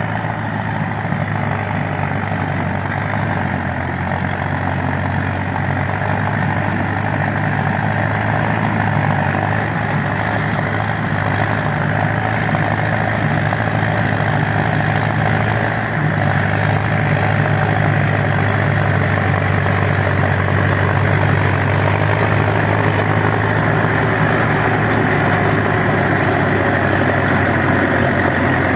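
Diesel engine of a TDT-55 crawler skidder running steadily, getting a little louder about halfway through.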